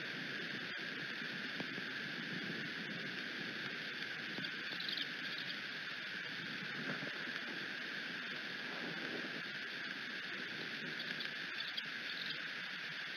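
Steady rain pattering on the bald eagle nest, with a few faint high squeaks about five seconds in and again near the end.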